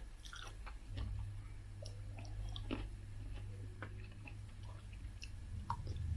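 Close-miked chewing: small wet mouth noises and scattered clicks, over a steady low hum.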